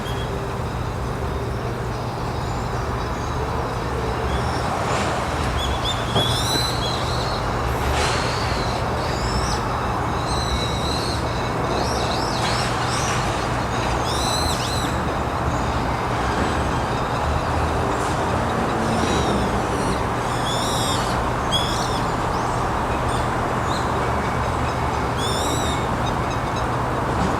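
A bird giving short, high, arching calls again and again, singly and in quick pairs, over a steady low background rumble with a hum.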